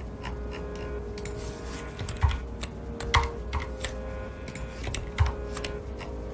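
Typing on a mechanical keyboard with Cherry MX Red linear switches: a steady stream of quick key clicks. Three louder key strikes come spread through the middle.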